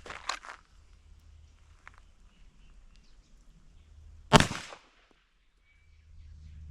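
A single gunshot about four seconds in, from a shooter's warm-up drill, with a short ring-out after it.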